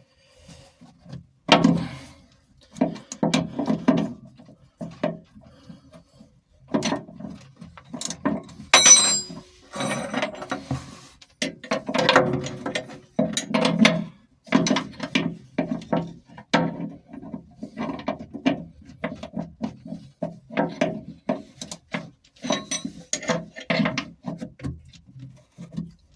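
Ratchet spanner working on metal in short irregular bursts of clicking and rattling, with a few knocks and clinks of the tools.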